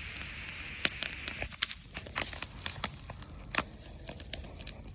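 Bonfire crackling, with irregular sharp pops and snaps over a steady hiss of burning.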